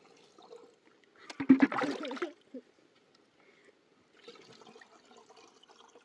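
Water splashing and pouring for about a second, with a few knocks, then a faint trickle.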